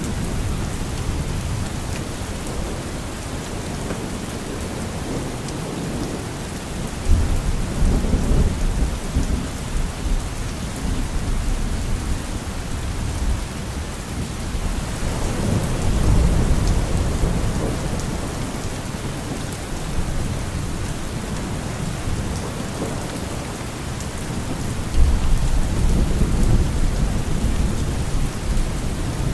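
Steady rain with low rolls of thunder three times, each lasting a few seconds.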